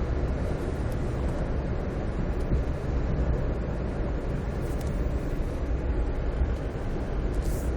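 Steady low rumble of a car driving along a road, tyre and engine noise heard from inside the cabin. A brief faint hiss sounds near the end.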